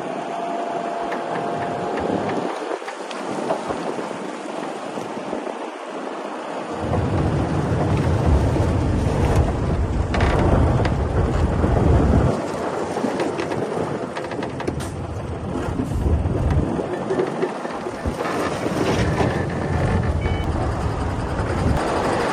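Heavy diesel earthmoving machinery working, a low engine rumble with rough noise over it, swelling heavily from about 7 to 12 seconds in and again a few times later.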